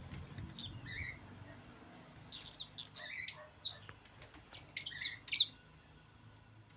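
Lovebirds chirping and squawking in short, shrill calls that come in three clusters, the loudest near the end.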